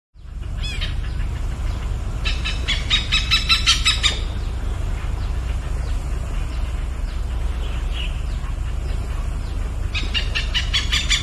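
A bird calling in two runs of rapid, harsh repeated notes, about five a second, one starting about two seconds in and another near the end, over a steady low rumble.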